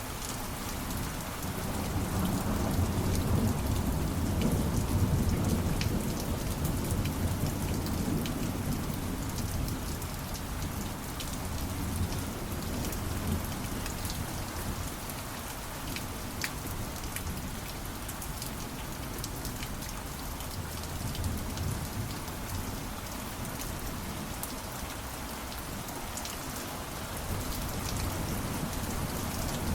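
Steady heavy rain with fine pattering drops, and a low rolling rumble of thunder that swells a couple of seconds in and fades by about halfway.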